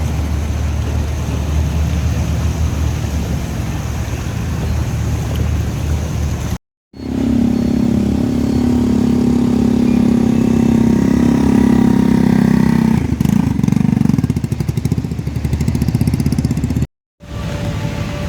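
Motor vehicle engines running in street traffic, across three short shots. In the middle shot a close engine runs steadily and then turns to a rapid putt-putt pulse.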